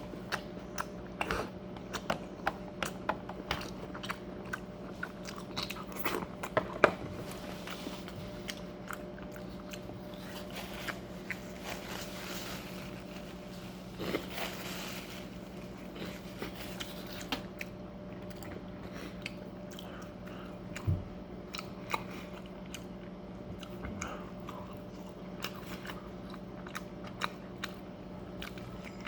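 Close-miked chewing and biting of a meat quesadilla, wet smacks and crunchy bites repeating irregularly. A steady low hum runs underneath.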